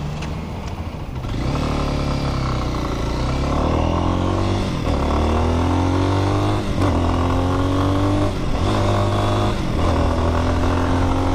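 Lifan X-pect 200's single-cylinder fuel-injected engine pulling away and accelerating through the gears. Its pitch climbs, then drops briefly at each of several upshifts, the first about five seconds in.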